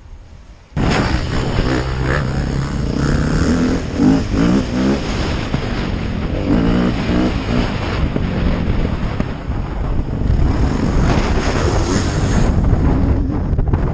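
KTM 250 SX-F four-stroke single-cylinder dirt bike engine running and revving up and down, starting abruptly about a second in, under heavy wind noise on the microphone.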